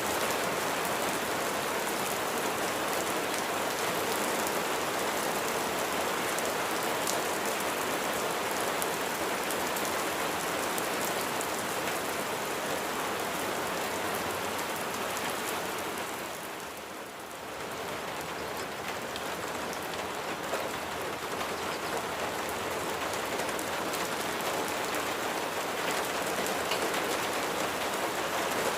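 Steady rain falling, a dense patter of raindrops on surfaces. It eases briefly a little past halfway, then picks up again.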